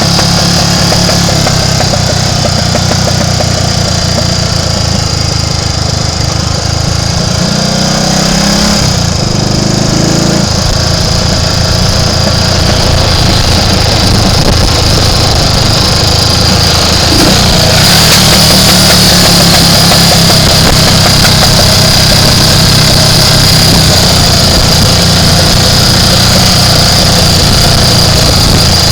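Triumph Tiger Cub's small single-cylinder four-stroke engine running under way on the road. Its note shifts about eight seconds in and grows louder a little past halfway.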